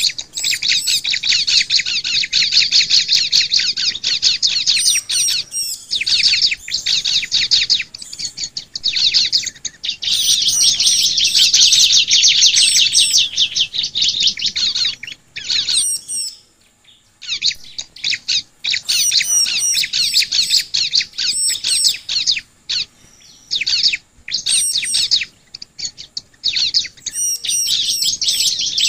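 Bar-winged prinia (ciblek) singing: long runs of rapid, high-pitched chirping notes, several seconds at a time, with a brief pause a little past halfway.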